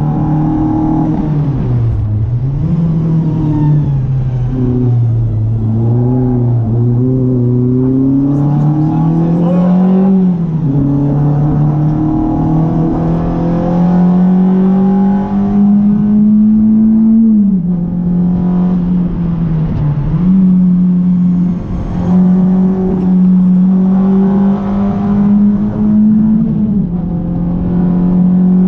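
Renault Clio RS 182's 2.0-litre four-cylinder engine driven hard, its pitch climbing steadily under acceleration and dropping sharply several times at gear changes or lifts.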